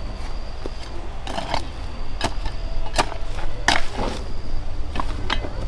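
A run of irregular sharp knocks and cracks, about seven over a few seconds, over a steady low rumble.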